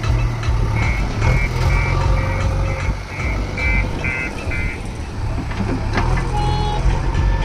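Diesel engine of a JCB 3DX backhoe loader running steadily while its reversing alarm beeps about nine times, roughly two beeps a second, then stops. A sharp click comes near the end.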